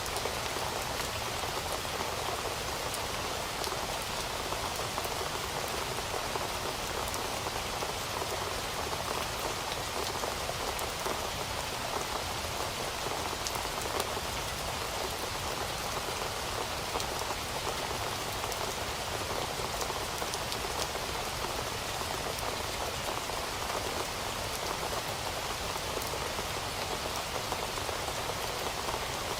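Heavy rain falling steadily on a surface, a dense even hiss with scattered drop ticks that holds without change.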